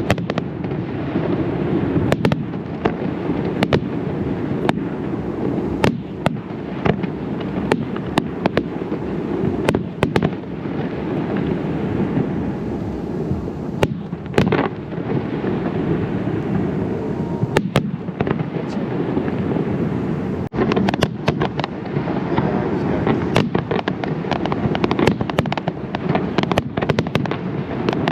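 Zambelli aerial fireworks display going off in a continuous barrage: many sharp cracks and bangs over a steady rumble of booms. The cracks come thicker and faster about two-thirds of the way through.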